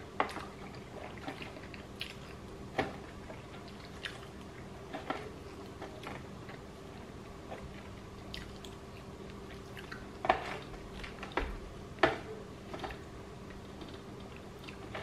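A person chewing sushi close to the microphone, with scattered wet mouth clicks and smacks, a few of them sharper, over a faint steady hum.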